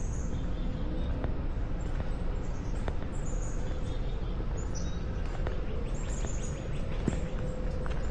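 Small birds chirping in short, high-pitched notes repeated again and again, over a steady low background rumble.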